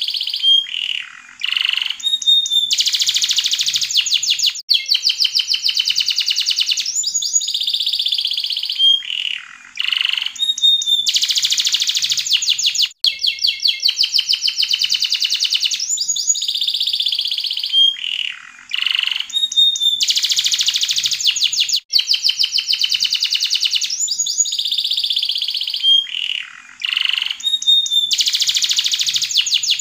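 Yellow domestic canary singing: long phrases of rapid trills and clear whistled notes with short breaks, the same song sequence repeating about every eight seconds as a loop.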